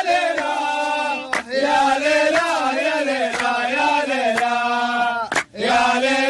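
Male voice chanting an Arabic football chant in long, melodic held lines, pausing briefly about a second and a half in and again near the end.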